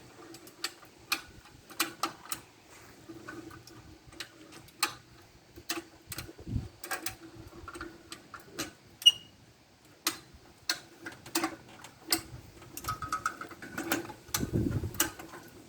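Irregular metal clicks and knocks of hand tools working on a planer during motor and jackshaft removal, with a sharp ping about nine seconds in and two low thuds, one midway and one near the end.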